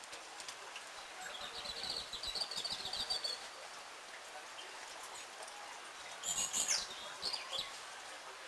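Small songbird singing: a rapid, high trill starting about a second in and lasting about two seconds, then a few short high calls near the end.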